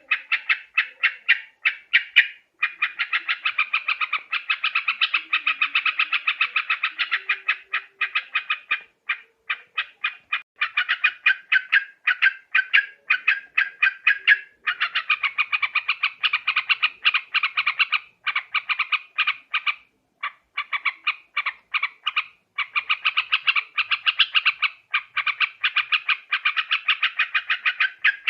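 Yellow-vented bulbul (trucukan) chattering: a rapid stream of sharp, bubbly notes, several a second, with a few brief pauses. This is a bird-trapping lure call.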